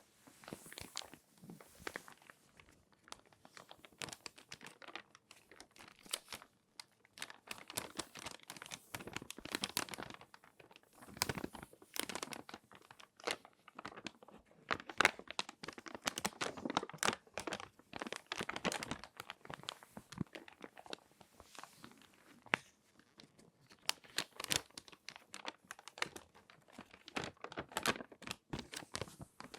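Glossy magazine pages being folded and handled, crinkling and crackling in irregular bursts of varying loudness.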